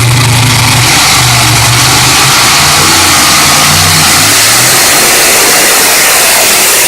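Modified pulling tractor's engine running at full throttle under load down the pulling track, very loud. Its low engine note drops away about four seconds in.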